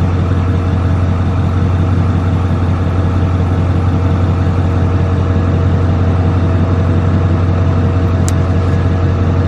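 Engine idling steadily, a loud unbroken low hum with even overtones.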